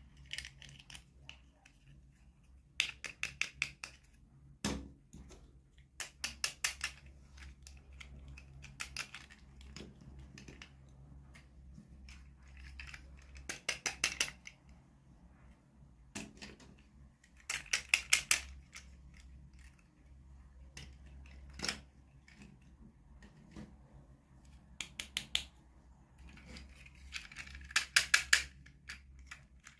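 Bursts of rapid small clicks, several a second, from hands opening and handling plastic toy packaging. The bursts come every few seconds over a low steady hum.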